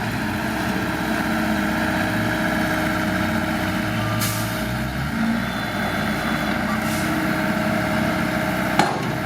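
Heavy diesel machinery running steadily, with a short hiss about four seconds in and a sharp knock near the end.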